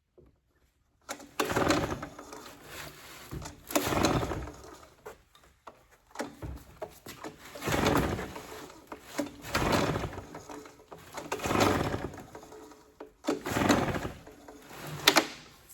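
Recoil starter cord of a Husqvarna 150BT backpack leaf blower's two-stroke engine being pulled about seven times, roughly two seconds apart, without the engine catching. The engine has spark but a dry plug, which the owner takes as a sign it is not getting fuel.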